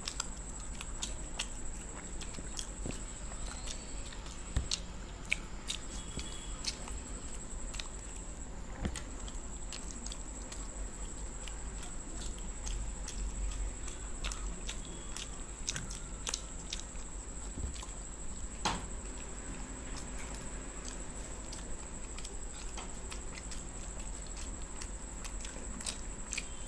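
Two people biting and chewing steamed chicken momos, with many small wet clicks and smacks of mouths eating. A faint steady high-pitched whine and a low hum run underneath.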